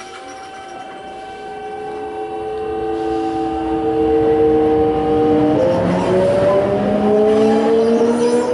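Toei 5300 series train's Hitachi-built Mitsubishi GTO VVVF inverter and traction motors whining as the train accelerates: several tones rise steadily in pitch and jump to a new set of tones about five and a half seconds in, growing louder throughout.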